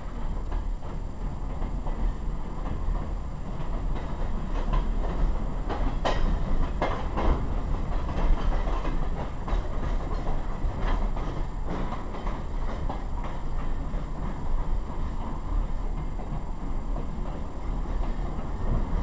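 Caboose rolling along the track, heard from inside the car: a steady low rumble of wheels on rail with scattered clicks and knocks from the track, the sharpest about six to seven seconds in.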